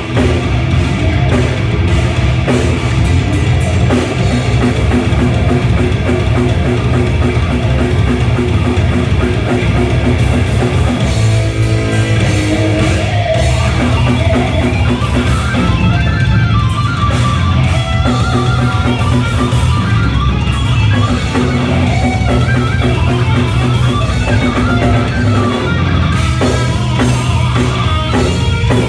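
Loud rock music with electric guitar and a drum kit, with a short break about eleven seconds in.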